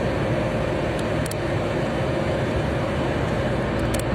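Steady road and engine noise of a car at highway speed, heard from inside the cabin, with a faint steady hum over the rumble.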